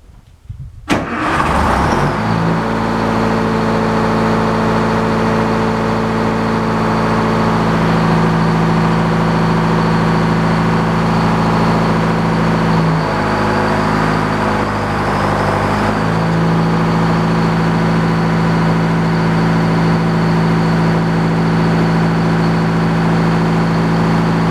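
Small sawmill's engine cranking and catching about a second in, then running steadily. Midway its note drops and wavers for a few seconds, then settles back to the same steady speed.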